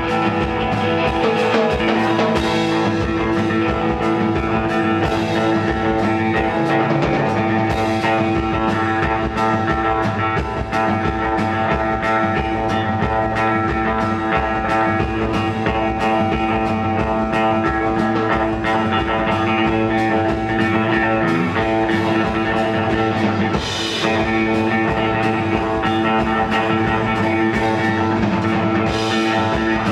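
Rock band playing live, an instrumental passage with guitar held over a steady drum beat.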